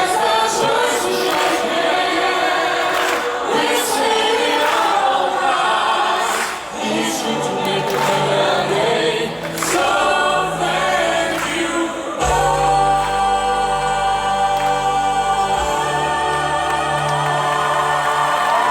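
Music of a group of voices singing together in choir style. About twelve seconds in, a steady bass and held chords come in under the voices.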